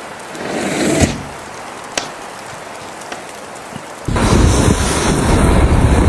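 Outdoor storm noise: a faint, even hiss with a swell and a knock about a second in and a click near two seconds. About four seconds in it jumps abruptly to loud, low, rumbling noise.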